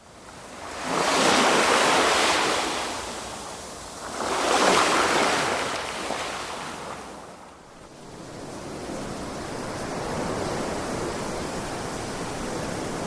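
Sea waves breaking on a beach: two surges of surf crash about a second and about four seconds in, then settle into a steadier wash of water.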